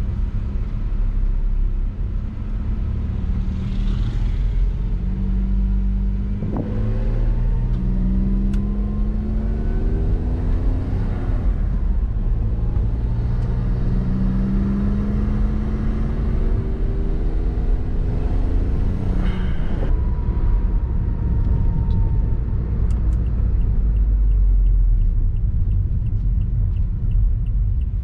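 Honda S660's small turbocharged three-cylinder engine heard from on board, pulling with its pitch rising three times and dropping back between pulls as it shifts up, then running steadily at a lower, even rumble for the second half.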